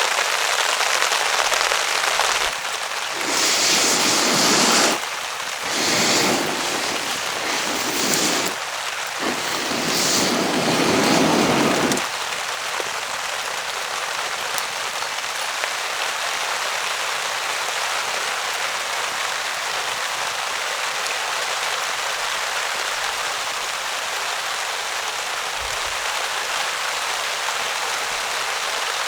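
Heavy rain falling steadily, with several louder swells of rain noise in the first twelve seconds, then an even hiss.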